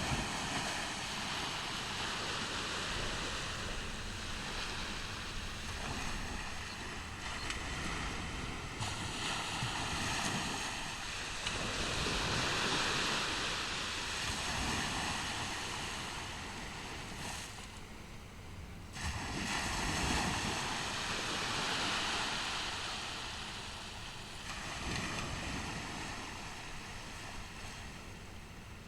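Ocean waves breaking and washing up on a beach: a steady hiss of surf that swells and eases several times.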